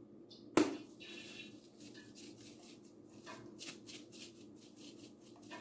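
Light rustling and crackling as chicken is pressed and turned in breadcrumbs, with a single sharp, loud sound about half a second in, over a steady low hum.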